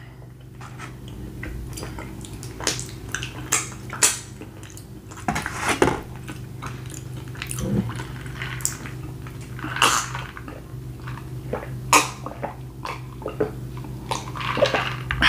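Close-up eating sounds: chewing and wet mouth smacks, with scattered clicks of a fork against a foam takeout container, over a steady low hum. Near the end, gulps of a drink.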